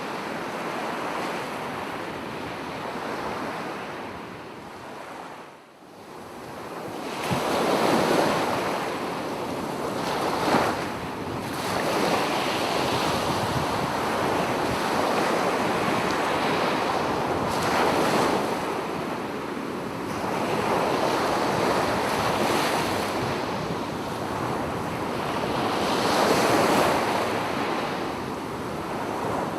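Sea waves breaking and washing up on a beach, swelling and ebbing every several seconds. The surf drops almost to a lull about five and a half seconds in, then builds again, with the loudest waves about eight and twenty-six seconds in.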